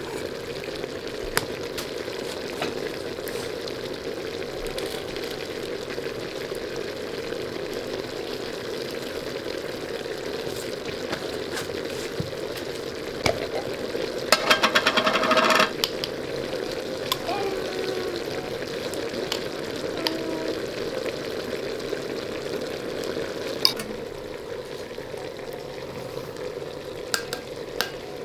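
Sliced onions frying with a steady sizzle in a hot stone cooking pot, with scattered clicks of utensils. About halfway there is a louder burst lasting about a second and a half.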